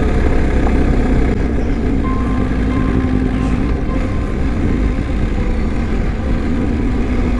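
BMW R1250 boxer-twin motorcycle engine running steadily under way, with wind and road noise.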